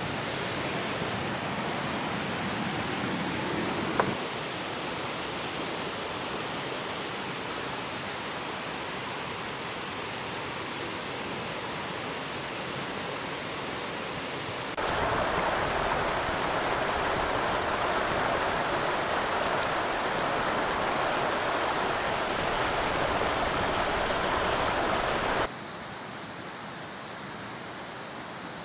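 River water rushing steadily, in cut-together shots: the level drops slightly about four seconds in, jumps up about fifteen seconds in and drops again near the end. A thin, steady high whine sounds over the water for the first four seconds.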